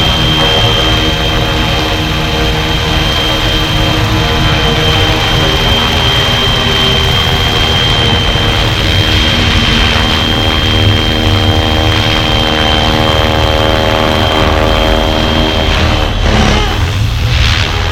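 Flywing FW450 V3 RC helicopter in flight: a steady buzz from the rotor and motor, with a high whine running over it. The sound shifts in pitch and breaks up about sixteen seconds in.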